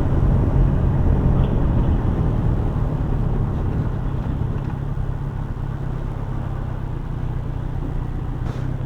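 Motorcycle engine running at low speed with road and wind noise, easing off and slowly quieter as the bike slows to pull over.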